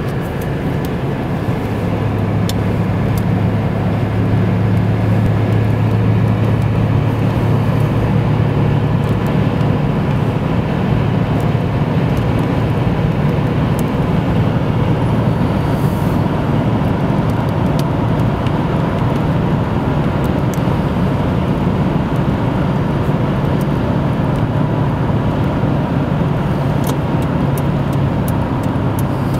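Car driving, with steady engine and road noise and a low hum.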